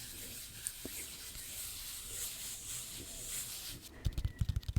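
Close-miked ASMR trigger sounds: a soft, steady rubbing hiss, then quick rapid tapping that starts about four seconds in.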